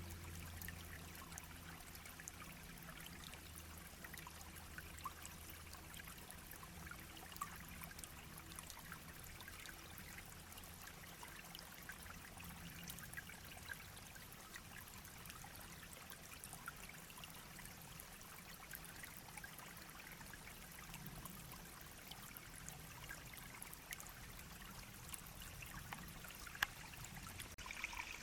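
Small stream babbling and trickling steadily over stones, a fine texture of many tiny splashes.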